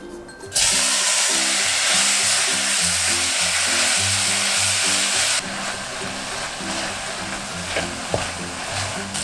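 Food sizzling loudly in hot oil in a frying pan, starting suddenly about half a second in as it hits the pan, then sizzling more quietly from about five seconds in.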